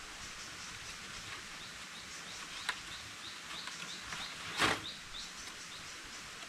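Rainforest ambience: a steady insect hiss with many short, high bird chirps repeating. A sharp click sounds near the middle, and a louder brief rustling knock comes about two-thirds of the way through.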